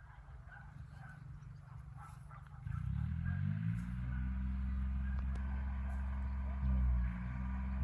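An engine starts running about two and a half seconds in, its pitch rising briefly, then settles into a steady low run that grows louder near the end. Before it there is a low rumble with faint chirps.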